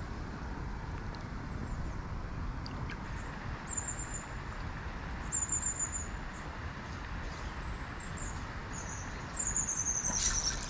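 A small songbird calling in short, very high trills, three bursts, the last a longer trill falling in pitch, over a steady low outdoor rumble. A brief louder rushing noise comes shortly before the end.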